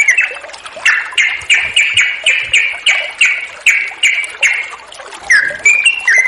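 Yellow-vented bulbul (trucuk) singing: a run of about a dozen similar down-slurred notes, roughly three a second, then a short phrase of stepped chirps near the end.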